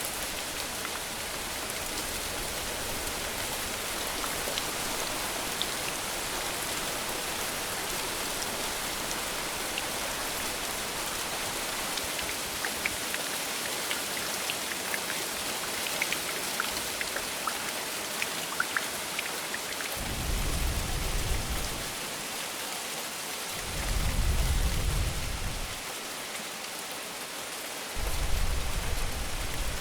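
Steady rain hissing, with individual drops ticking sharply now and then. In the last third, three low rumbles of about two seconds each come roughly four seconds apart.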